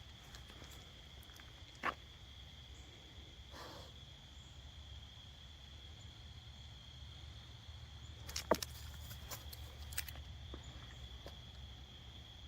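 Crickets trilling steadily in one high, thin tone, with a few scattered sharp clicks and rustles, the loudest about two seconds in and a cluster at about eight and a half seconds.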